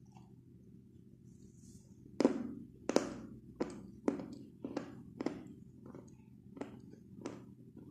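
White chalk being chewed: a run of about nine dry crunches, roughly one every half to three-quarters of a second, starting about two seconds in. The first two bites are the loudest, and the crunches soften as the chalk breaks down.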